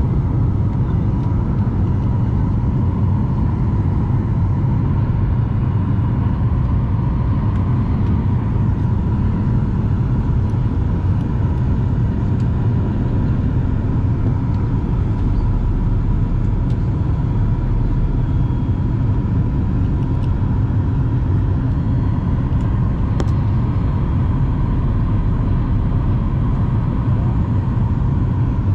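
Jet airliner cabin noise in flight: a steady, loud low rumble of engines and airflow with a faint constant whine above it.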